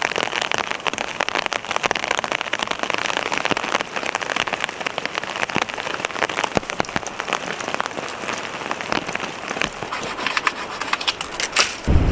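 Heavy rain falling on a fabric tent or tarp shelter, a dense spatter of separate drop hits with a few louder ones near the end.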